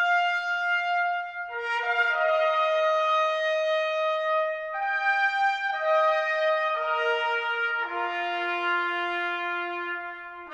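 Brass music of long held chords that change every second or two, with trumpet on top, fading near the end.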